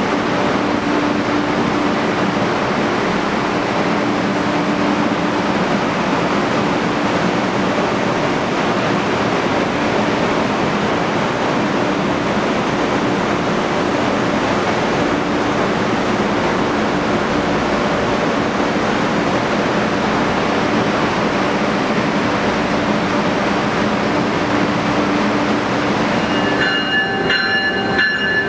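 Amtrak Acela trainset standing at an underground platform, its equipment giving a steady loud rush with a low hum. Near the end, several steady high whining tones come in.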